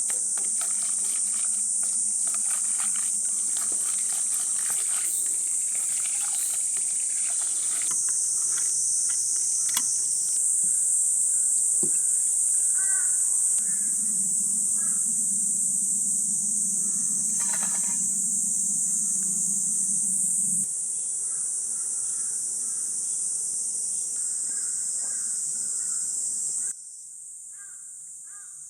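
Steady high-pitched drone of summer insects, with a low hum for several seconds in the middle and a few faint chirps; the sound drops abruptly in level twice near the end.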